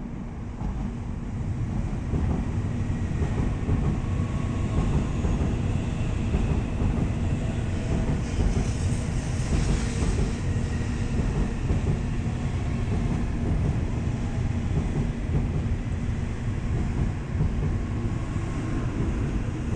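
N700A Shinkansen train pulling into the station to stop, its carriages rolling past with a steady low rumble that builds over the first two seconds. A brief hiss comes about halfway through.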